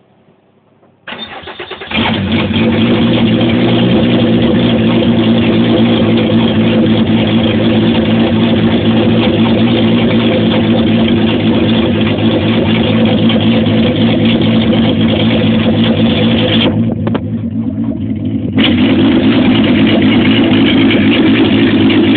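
Turbocharged VR6 engine on its first start-up: it cranks briefly, catches, and settles into a loud steady run. About seventeen seconds in, the sound drops for a couple of seconds, then comes back at full level.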